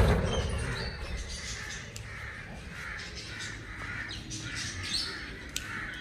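Birds calling repeatedly, a run of short calls at about two a second, after the fading tail of a thump at the very start.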